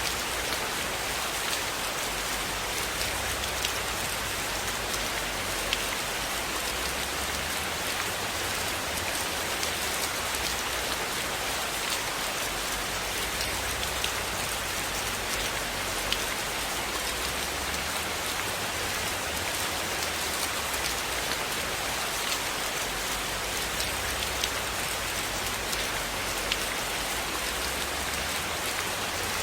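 Steady rainfall, an even hiss with scattered light ticks of individual drops, over a low rumble that rises and falls slowly.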